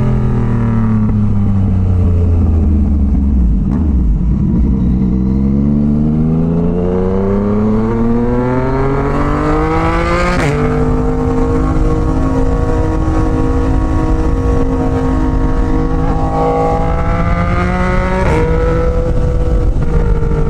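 Yamaha MT-09's inline three-cylinder engine on the move: revs fall as the bike slows for the first few seconds, then climb steadily under acceleration to a sharp upshift about halfway through. It then holds a steady pitch while cruising, with another quick gear change near the end.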